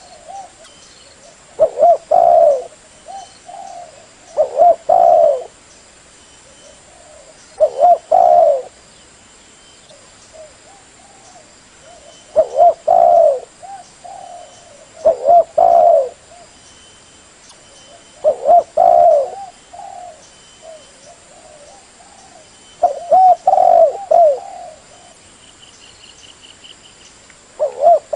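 Spotted dove (derkuku/tekukur) cooing: the same short phrase comes again and again, about every three seconds, with brief pauses between the calls.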